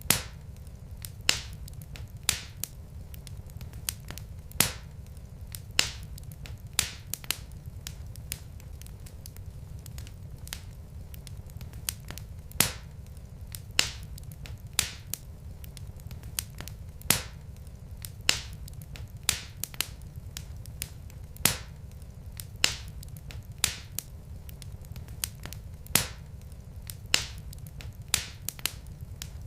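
Wood fire in a fireplace crackling: sharp irregular pops and snaps from the burning logs, one or two a second, over a steady low rumble of the flames.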